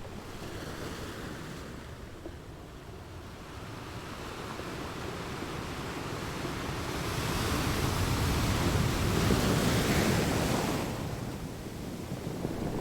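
Ocean waves: the surf swells over several seconds, peaks about two-thirds of the way through, then falls away before the next wave starts to build near the end.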